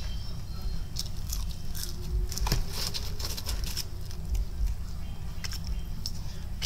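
Close-up chewing of a crunchy breaded fried chicken tender, with irregular crisp crackles.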